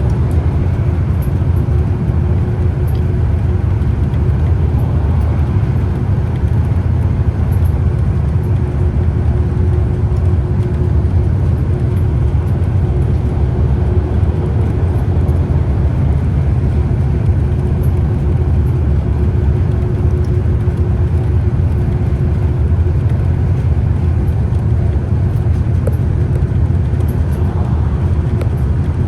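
Scania CK320UB Citywide city bus running along the road: a steady low drone of engine and road noise with a faint steady hum over it.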